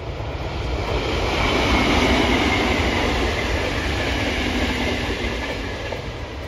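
A train passing at speed: the rush and rumble of its wheels on the rails swell to a peak about two seconds in and then slowly die away.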